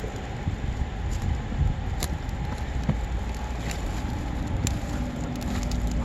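Wood campfire crackling, with scattered sharp pops over a steady low rumble. A steady low hum comes in about two-thirds of the way through.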